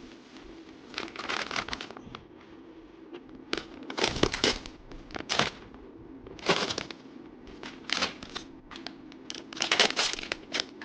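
Blind-bag packaging crinkling and rustling in irregular bursts as it is handled and opened by hand.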